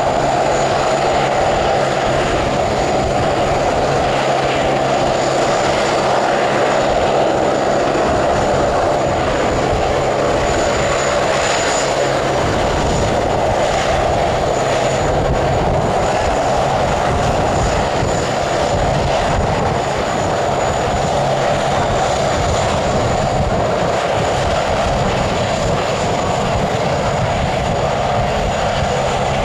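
Jet airliner engines running loud and steady, with a thin high whine over the noise.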